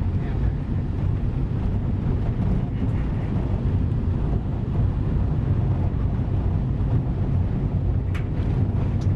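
Steady low rumble of a van on the move, heard from inside the cabin, with a short click about eight seconds in.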